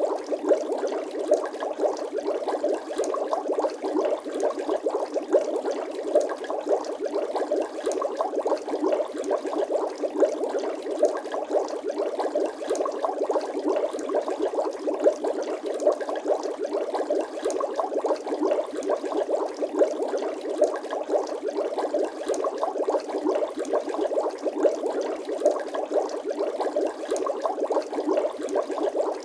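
Bubbling water sound effect: a steady, dense stream of small bubbles gurgling and popping.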